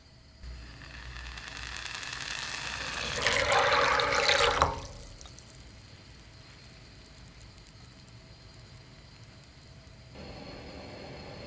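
Water running into a container for about four seconds, growing louder until it stops abruptly. A low steady hum follows, which becomes louder near the end.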